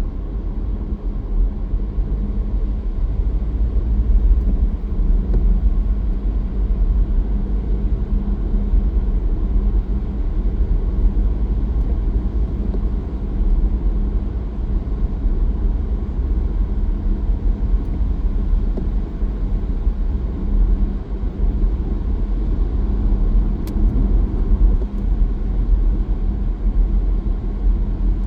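Car driving at a steady pace: a continuous low rumble of engine and tyres on the road, unchanging throughout.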